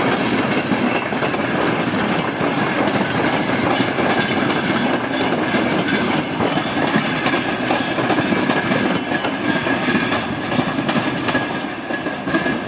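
Passenger train carriages rolling past, their bogie wheels clicking and knocking over the rail joints in a steady clatter.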